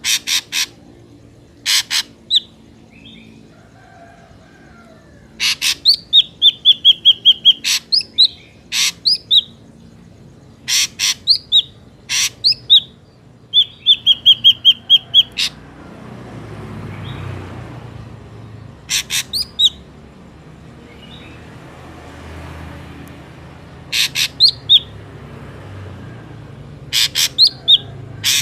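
Ashy drongo calling in repeated bouts: harsh rasping notes mixed with clear whistles, some short and slurred, two held steady for about two seconds, with gaps of a second or more between bouts. Faint low background noise comes up in the second half.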